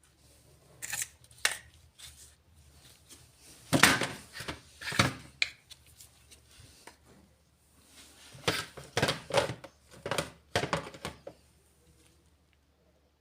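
Miniature plastic toy pieces being handled and set down: sharp clicks and light knocks in three groups, with quiet pauses between.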